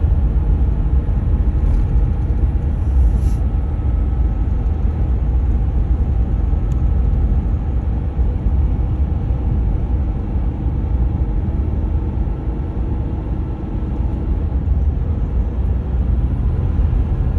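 2014 Ram 1500 EcoDiesel's 3.0-litre V6 turbodiesel running with a steady low rumble. The truck has a clogged diesel particulate filter that will not regenerate.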